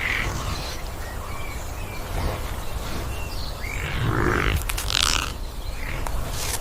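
Wild birds chirping and calling in short scattered notes over a steady low rumble, with a louder, harsher call about five seconds in.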